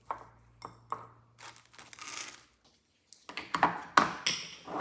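Kitchen handling noises: crinkling and light clicks and taps, likely the plastic bread bag and toast being handled. After a brief silent gap about three seconds in, a louder, busier run of taps and clatter starts.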